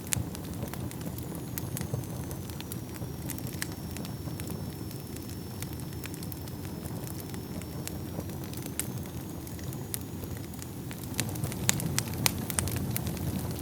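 Wood fire burning in a fireplace: a steady low rumble of flames with frequent sharp crackles and pops, which come thicker and louder near the end. A faint thin high whistle runs through most of it.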